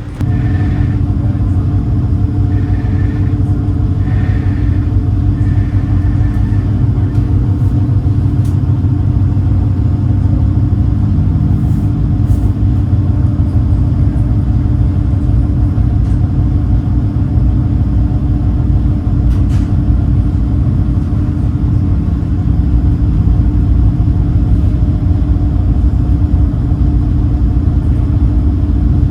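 Engines of the high-speed passenger boat Super Jet Miyajima running steadily: a loud, constant low rumble with a steady hum.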